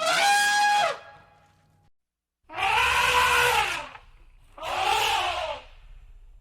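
Elephant trumpeting: three blasts of about a second each, the last two rising and then falling in pitch.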